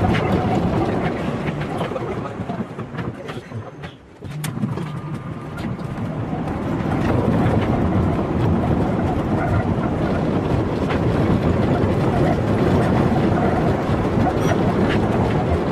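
A moving train's steady running noise, dipping briefly about four seconds in.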